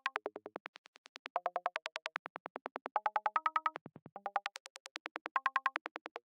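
VCV Rack software modular synthesizer playing a forest psytrance sound effect: a rapid even stream of short, clicky plucked notes, about ten a second, their pitch stepping up and down in short repeating runs while the loudness swells and fades in waves.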